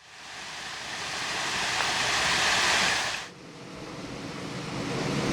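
Pool waterfall water splashing into the pool: a steady rushing that grows louder, breaks off suddenly about three seconds in, then builds again.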